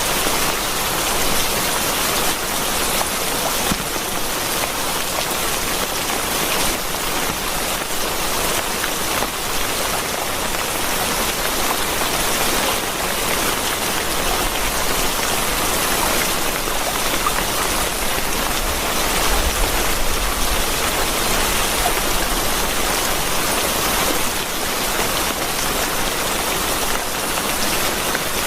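Steady heavy rain falling, an even hiss dotted with the patter of countless individual drops. About two-thirds of the way through, a low rumble swells briefly underneath.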